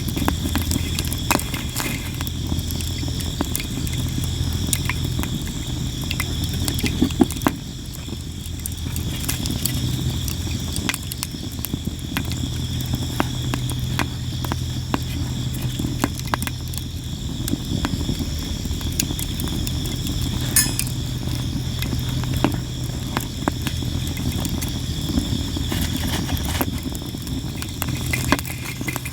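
Sawara cypress firewood burning, with constant crackling and sharp pops scattered throughout and one louder pop about seven seconds in. Insects chirr steadily underneath, over a steady low hum.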